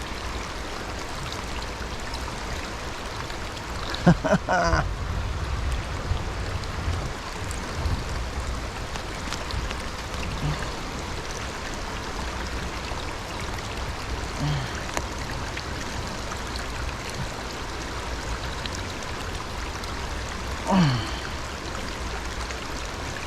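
Steady rush of a flowing creek, with a man's short vocal sounds about four seconds in and again near the end.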